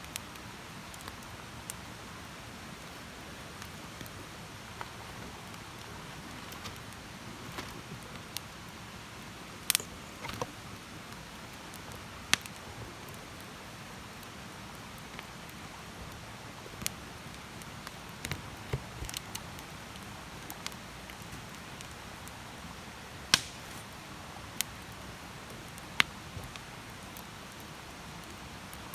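Wood campfire burning: a soft steady hiss with scattered, irregular crackles and pops, a handful of them sharper and louder snaps.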